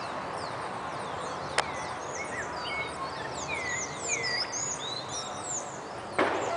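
Many small birds chirping and twittering over a steady outdoor background noise, with a single sharp click about one and a half seconds in and a short louder sound just before the end.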